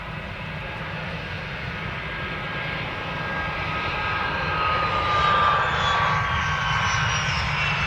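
Aircraft engines growing louder as a plane passes close by, a steady rush with a high whine that slowly falls in pitch.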